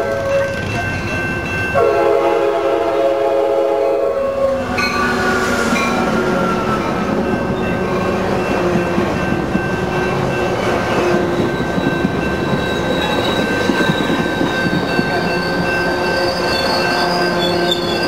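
A Coaster commuter train's K5LA horn sounds a short blast, then a long blast lasting about three seconds. The bilevel train then runs past close by, its wheels and cars rumbling over the rails, while the grade-crossing bell rings steadily. A high wheel squeal comes in near the end.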